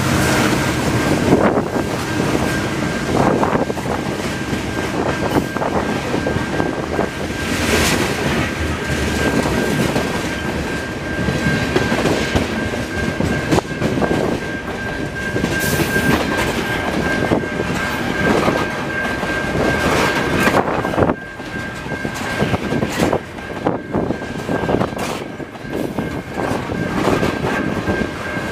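Freight cars of a passing freight train, covered hoppers then open-top hoppers, rolling by close at hand with their wheels clattering over the rails. A steady high whine runs through it.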